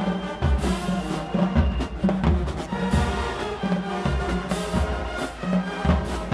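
HBCU-style marching band playing: the brass holds loud chords over a heavy drumline beat, with repeated deep drum hits and crashes.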